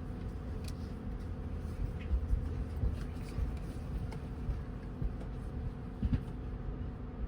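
Steady low rumble of a moving passenger train heard from inside the carriage, with a faint steady hum and a few faint clicks.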